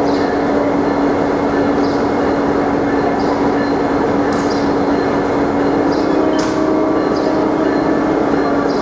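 A train standing idle, running steadily: a loud, even hum with one constant low drone, and faint high squeaks now and then.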